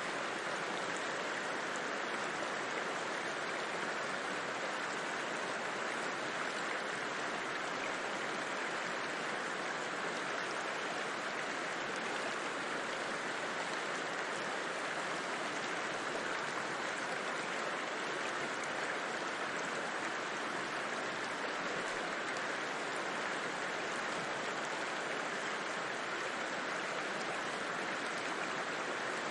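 A river flowing, a steady, even wash of water noise with no distinct splashes or other events.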